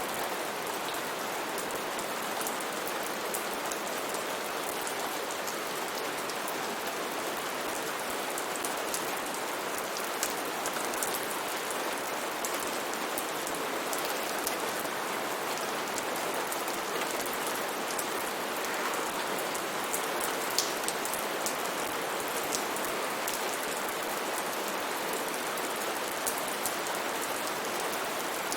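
Steady rain falling, an even hiss with scattered drops ticking sharply on a surface.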